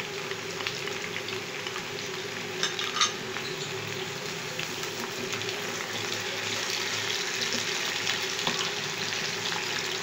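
Potato slices and sliced onion frying in oil in a pan with a steady sizzle, a spatula stirring them through the ginger-garlic paste; two short knocks about three seconds in.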